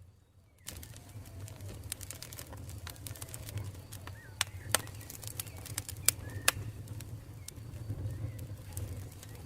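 Campfire burning, with a steady low rumble and many sharp crackles and pops, the loudest in a cluster near the middle. The sound cuts in after a brief gap of near silence at the very start.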